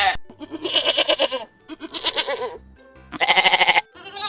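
Goat bleating four times in a row, each bleat under a second long, with a quavering, wavering pitch.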